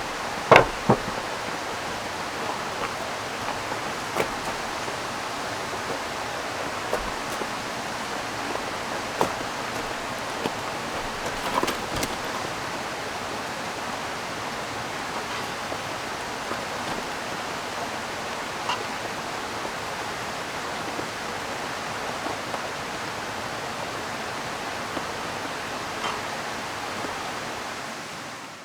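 Steady rushing of a river mixed with rain, with scattered sharp clicks and taps, the loudest pair about half a second in. The ambience fades down near the end.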